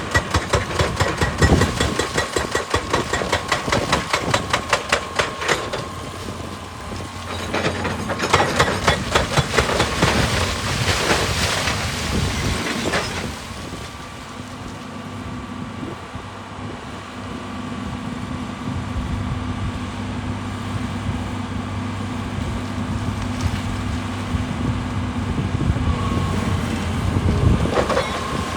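Excavator-mounted hydraulic breaker hammering rock in rapid, even blows, in two spells over the first half. After the hammering stops, the excavator's diesel engine runs steadily, with a short loud burst near the end.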